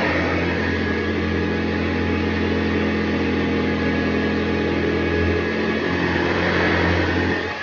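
1974 Hoover Convertible U4047 upright vacuum cleaner running steadily, its motor humming under an even rush of air. The sound dips briefly near the end.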